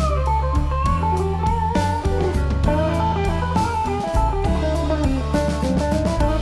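Background music: a guitar-led instrumental with an electric guitar melody over a steady bass and beat.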